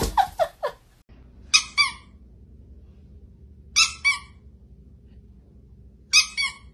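Squeaky toy squeezed three times, about two seconds apart, each a quick double squeak, over a faint low hum. A few short falling squeals come in the first second.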